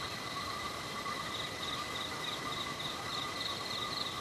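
Chorus of forest insects chirring steadily in several high pitches, with a pulsing chirp repeating about three times a second.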